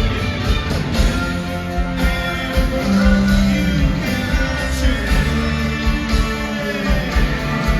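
Live rock band playing loud: electric guitars and drums with a steady beat, held notes, and a singing voice over them, as heard from the crowd.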